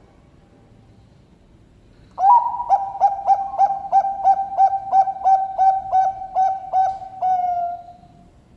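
Bangkok-line zebra dove (perkutut) singing: a run of about fifteen short coos at roughly three a second, starting about two seconds in and ending in one longer, falling note.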